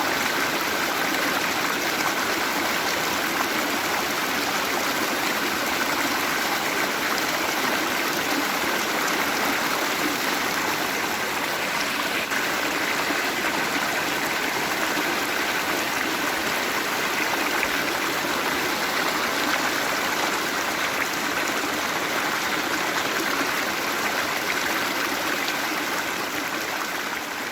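Waterfall: a steady, even rush of falling and running water, easing off slightly in the last second or so.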